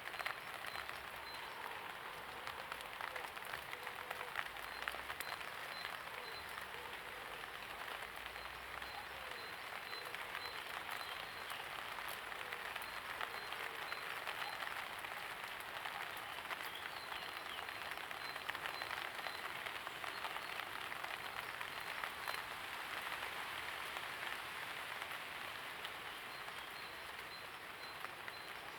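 Steady light rain with a dense patter of individual drops ticking on surfaces.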